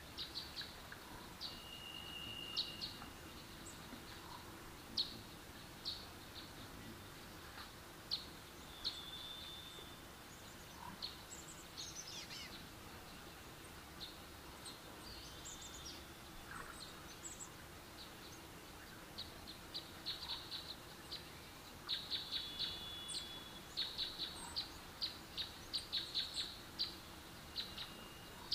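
Faint high-pitched chirps and short whistles, typical of small birds. They are sparse at first and come thick and fast in the last several seconds.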